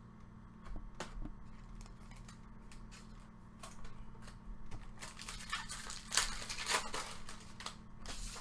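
Trading card pack and baseball cards being handled. A few light clicks at first, then dense crinkling and rustling from about five seconds in.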